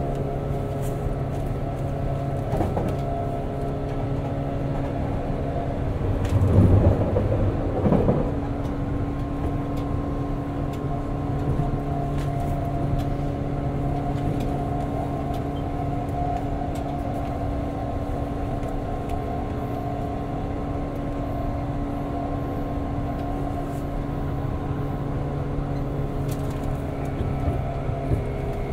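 Interior running sound of a 189-series electric multiple unit motor car with MT54 DC traction motors, heard inside the passenger cabin: a steady rumbling hum with several constant whining tones, as the train runs at steady speed. A louder low rumble swells twice about six to eight seconds in.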